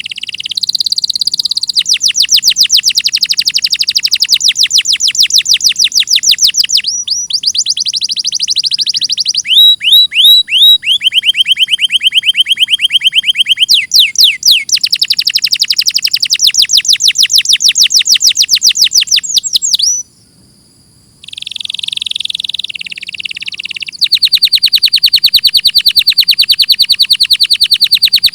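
Domestic canary singing a long song of rapid trills, each phrase a fast run of repeated high notes that switches to a new note type every few seconds. There is a brief pause about two-thirds of the way through.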